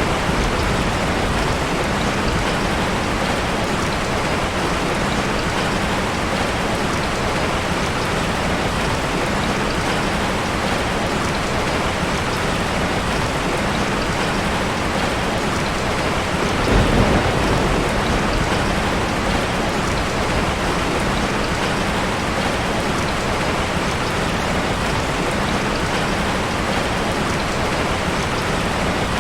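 Steady rain falling on the forest, a dense even patter, with a brief low swell about halfway through.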